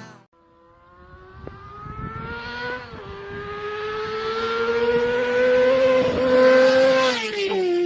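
Two-stroke engine of a rebuilt 2008 Yamaha YZ250 dirt bike running under load, its pitch climbing steadily, dipping briefly about three seconds in, then climbing again and falling away near the end.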